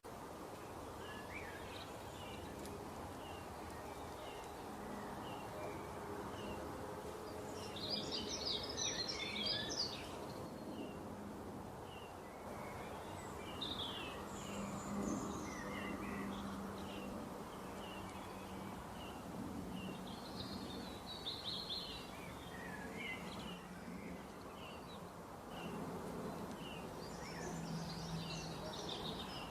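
Small birds chirping, with short repeated chirps and several bursts of twittering song over a steady low hum.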